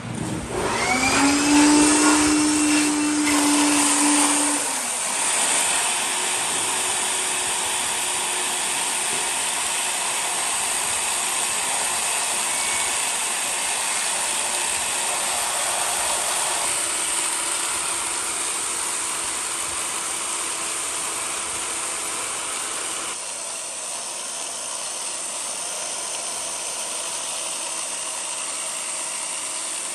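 Electric power tool running: it starts abruptly with a motor whine that rises over the first second and fades after a few seconds, leaving a steady, loud hiss that drops slightly about two-thirds of the way in.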